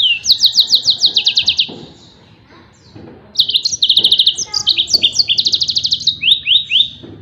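Yellow-fronted canary (Mozambique finch) singing its 'tembakan' phrases: rapid trills of high sweeping notes, about eight a second. A burst of about a second and a half comes first, then after a pause a longer run of several trills.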